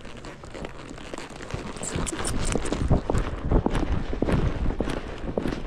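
Horse's hooves striking the arena footing in a quick, irregular series of thuds, getting louder about a second and a half in.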